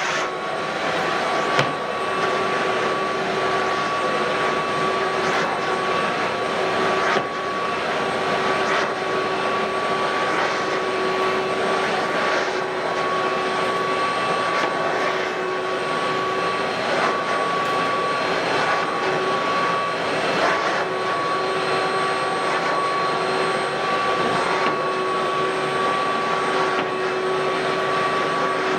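Ridgid WD1450 wet/dry shop vacuum running steadily with a constant motor whine over a rushing hiss of air, with a brief knock about a second and a half in and another about seven seconds in.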